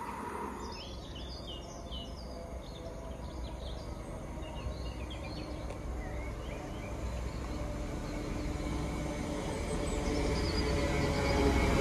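Small birds chirping in quick short calls over a low background rumble; over the last few seconds a rumble rises steadily in loudness as a vehicle approaches.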